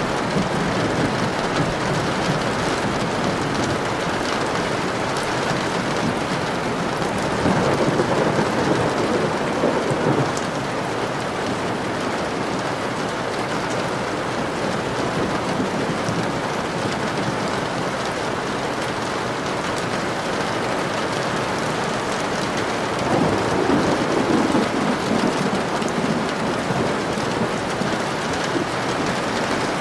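Steady heavy rain with a low rumble of thunder swelling twice, about a quarter of the way in and again past three quarters.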